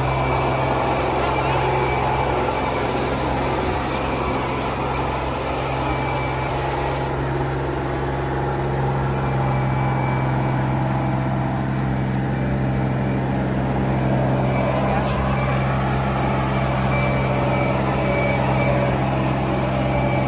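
Tractor engine running at a steady speed, with voices in the background.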